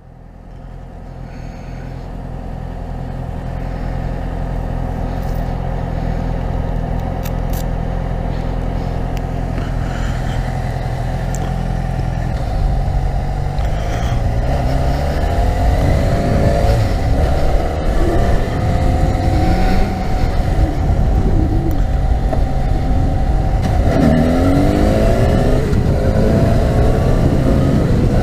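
Yamaha FZ6R 600cc inline-four motorcycle engine, running steadily at first, then from about twelve seconds in revving up and down repeatedly as the bike accelerates through the gears.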